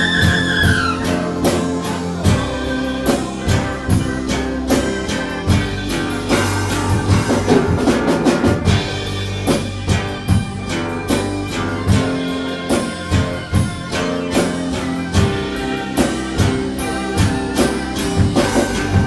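Live rock band playing an instrumental passage, with a drum kit keeping a steady beat under guitar. A high held note glides down and fades in the first second.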